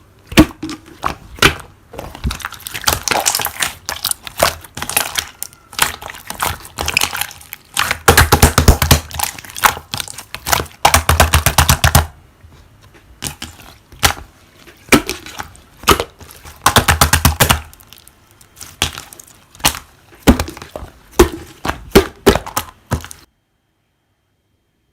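Slime being pressed and squished by hand, giving bursts of dense crackling and popping clicks, some bursts several seconds long; the sound stops abruptly near the end.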